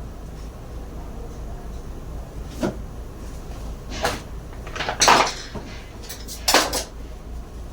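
Irregular sharp knocks and clatters from tools and parts being handled during the blower motor fitting, the loudest about five seconds in and a quick double knock near the end, over a low steady hum.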